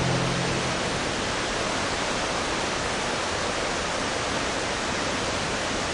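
Waterfall rushing: a steady, even sound of falling water. A low hum fades out within the first second.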